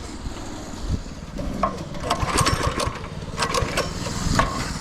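Small engine of a go-kart or mini bike running, with a low rumble and several sharp rattles and clacks in the second half.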